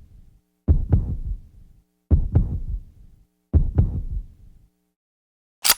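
Heartbeat sound effect: slow double thumps, lub-dub, three beats about a second and a half apart, each dying away, over a faint steady hum. A sharp click near the end.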